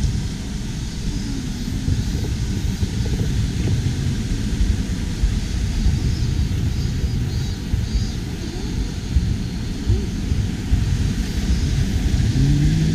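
Wind buffeting the microphone of a handheld camera on the move: a low, fluttering rumble that never lets up.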